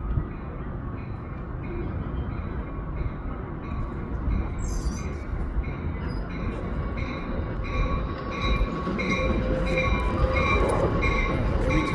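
Amtrak Capitol Corridor passenger train pulling into the station, its rumble growing louder as it nears. A bell rings about one and a half times a second throughout, and a steady squeal of wheels or brakes joins in the last few seconds.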